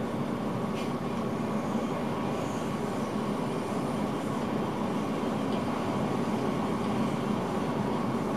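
NS Intercity train running at speed, heard from inside the driver's cab: a steady rumble of wheels on rail with a constant low hum.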